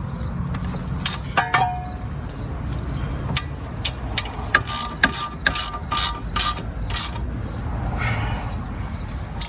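Hand ratchet clicking in short strokes while bolts on a rear wheel hub are run down, with a metallic clink about a second and a half in.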